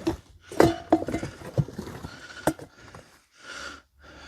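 Home decor items being rummaged through in a cardboard box: a run of knocks and clatters, some with a short ring as hard pieces strike each other.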